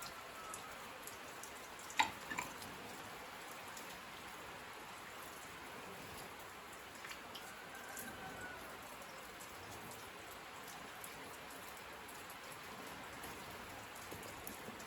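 Steady rain falling, with a couple of louder drops striking close by about two seconds in.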